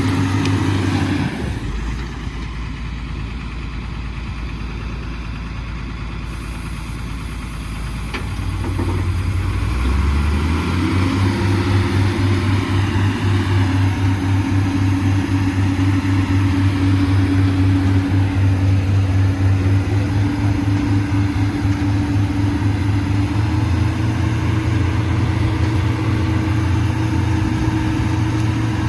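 Heavy diesel engine settles to a low idle a second or so in, then revs up over a couple of seconds about eight seconds in and holds a steady, higher running speed.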